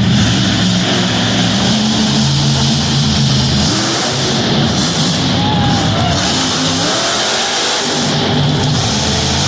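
Monster truck engine running and revving, dropping back for a few seconds midway, with rock music playing over it.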